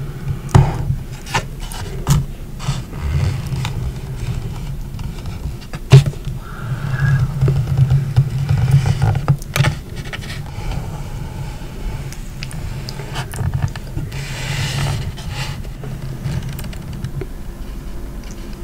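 Close-miked scraping and rubbing of food and its packaging, with scattered sharp taps and clicks, the loudest about half a second in and again around six seconds in.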